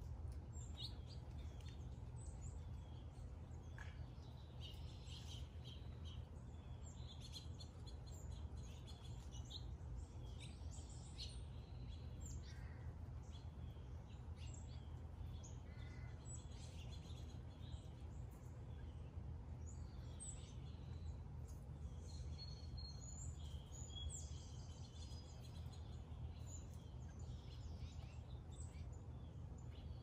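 Backyard birds chirping and calling in short, scattered high notes, over a steady low background rumble.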